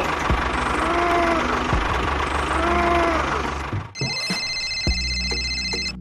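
A tractor engine running steadily, with two short rising-and-falling calls about two seconds apart. It cuts off about four seconds in, and music with a steady beat starts.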